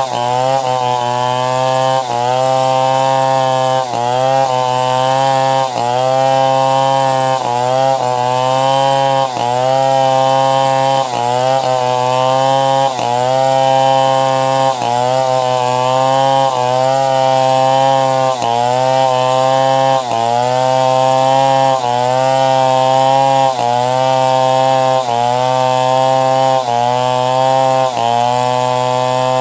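Chainsaw engine running hard under load while ripping timber into boards. Its pitch sags and recovers about once a second in a steady rhythm.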